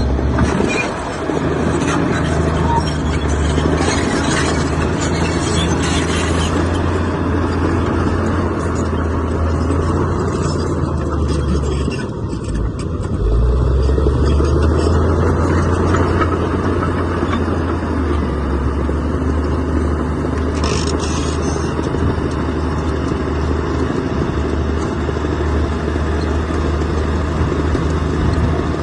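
Heavy diesel engine of earthmoving equipment running steadily under load. It eases briefly a little before halfway, then picks up louder again.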